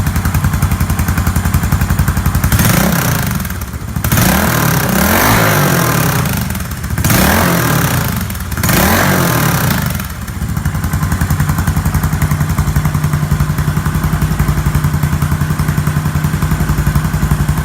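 Yamaha SR400's air-cooled single-cylinder four-stroke engine idling with an even thumping beat, revved up and let fall back four times in a row, then settling back to a steady idle.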